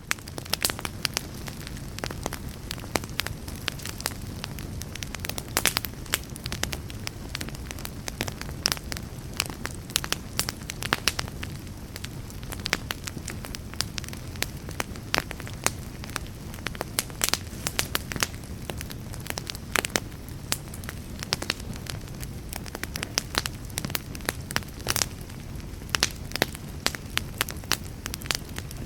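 Fire crackling: a steady low rumble under frequent irregular pops and snaps, a few of them noticeably louder than the rest.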